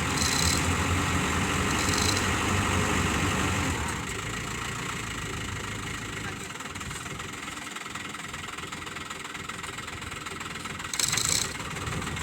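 Diesel truck engine idling steadily with a low knocking hum, dropping in level about four seconds in. A few short high-pitched rattles come through near the start, about two seconds in and near the end.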